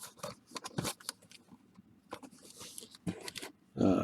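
A sealed baseball card blaster box, cardboard in plastic wrap, being handled: a run of short crinkles, crackles and taps.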